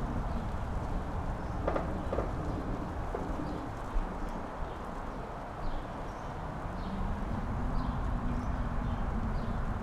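Mountain-top wind gusting and rumbling against the microphone. Faint short high chirps repeat about once or twice a second from a few seconds in.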